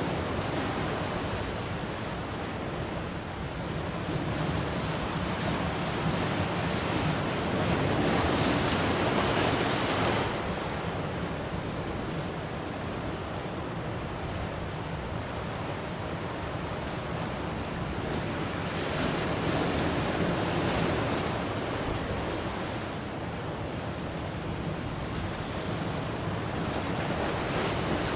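Ocean surf washing in slow swells of rushing noise. The loudest wave comes about eight to ten seconds in and falls off sharply, and smaller swells build again around twenty seconds in and near the end.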